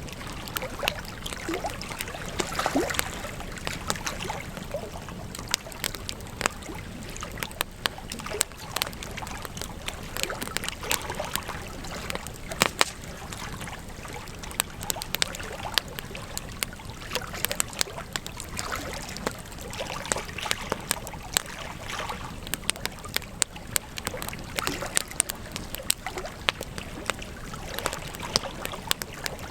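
Wood campfire crackling, with frequent irregular sharp snaps and pops, a few louder than the rest, over a steady hiss of burning.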